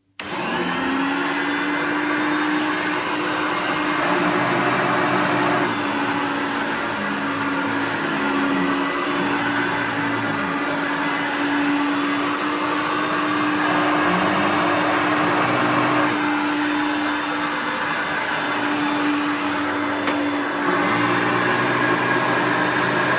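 Hoover Turbopower U2806 dirty-fan upright vacuum cleaner switched on: its motor starts suddenly and spins up with a rising whine in the first second, then runs steadily at full speed. By the owner's ear it sounds all right.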